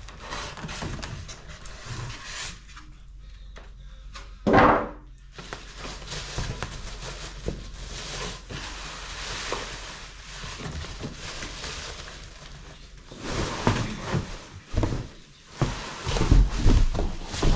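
Unpacking a boxed electric fireplace insert: packaging rustling and being moved about, with a short loud sound about four seconds in and a run of knocks and thumps near the end as pieces are handled.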